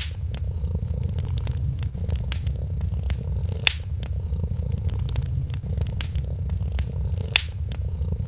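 A cat purring in a steady low rumble, over a wood fire crackling with scattered small clicks. Two louder pops come about four seconds in and near the end.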